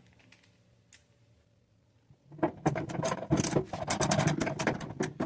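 Ratcheting screwdriver driving screws into the microwave's sheet-metal casing: after a quiet start with one small click, a dense run of rapid clicking and scraping begins a little past two seconds in.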